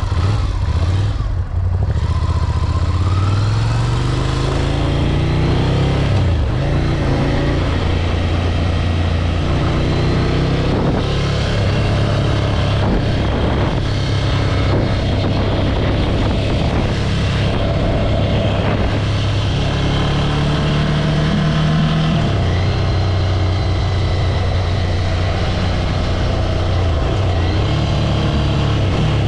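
Ducati Scrambler 803's air-cooled L-twin engine pulling away and accelerating. The pitch climbs through the gears, dips sharply at each shift or lift of the throttle, and runs steadily in between.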